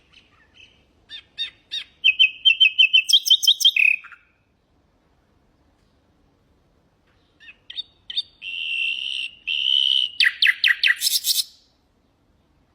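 Common nightingale singing: two phrases of rapid repeated notes and fast trills, each about three or four seconds long, with a pause of a few seconds between them.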